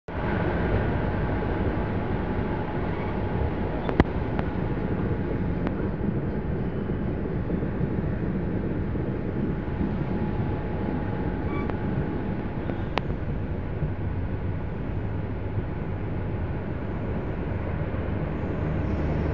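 Steady rumble and rail noise of a moving passenger train, heard from aboard a coach, with a sharp click about four seconds in and another around thirteen seconds.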